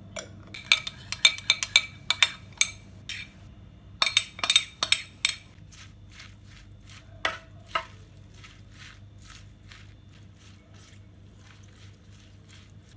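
Cutlery and dishes clinking: a quick run of sharp, ringing clinks in the first five seconds or so, then softer taps at about two a second.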